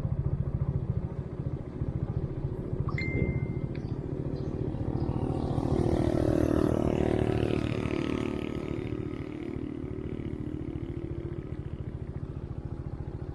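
Motorbike engine running steadily, with a swell of louder engine and road noise in the middle that rises and fades away again. There is a short high beep about three seconds in.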